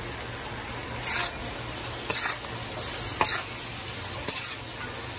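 Shrimp and seasonings sizzling in hot oil in a pot, stirred with a spoon in strokes about once a second.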